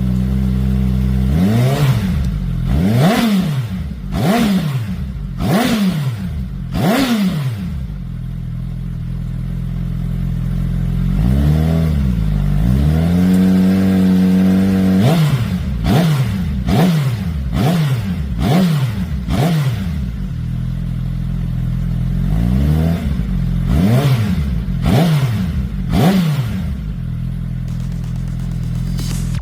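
Suzuki Hayabusa's inline-four engine running through an IXIL aftermarket muffler, revved in quick throttle blips that rise and drop back to idle, in groups of four or five. A longer rev is held for a few seconds in the middle.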